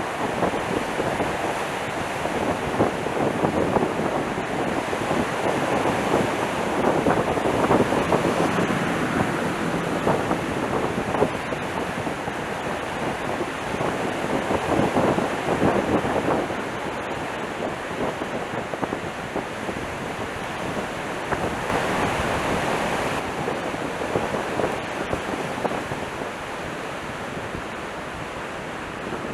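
Gale-force gusting wind buffeting the microphone: a continuous rushing noise that swells in stronger gusts about seven and fifteen seconds in.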